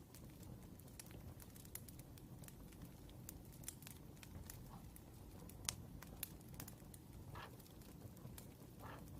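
Faint crackling of a wood fire: irregular sharp pops and snaps over a low steady rumble, with two brief hissing whistles near the end.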